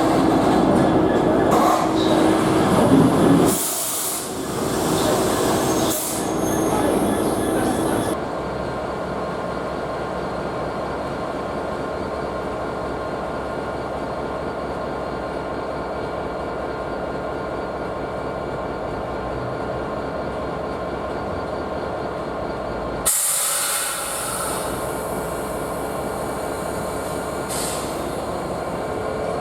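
Diesel locomotive-hauled train running on the rails, with wagons rolling and some wheel squeal. The sound changes abruptly twice, about eight seconds in and again near the twenty-third second.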